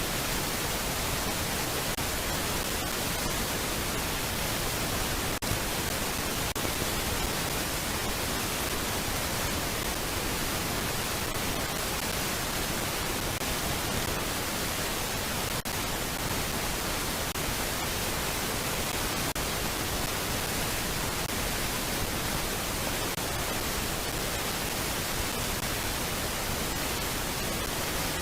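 Steady, even static hiss from a nest camera's audio, with no bird calls.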